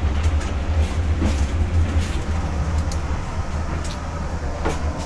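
Passenger train running, heard from inside a carriage: a steady low rumble with a few light clicks and knocks.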